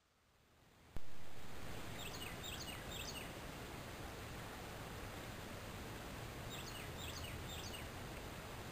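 Steady background hiss with a bird calling twice, each time a quick run of three or four short, falling, high chirps, about two seconds in and again near seven seconds. The sound cuts in with a click about a second in.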